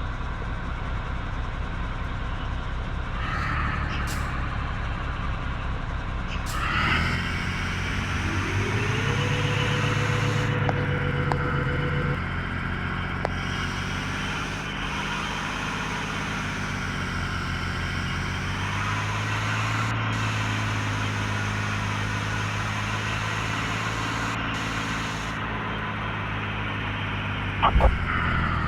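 Mercedes truck's diesel engine running on the move. About eight seconds in, a whine rises and then holds steady for a few seconds. A sharp knock comes near the end.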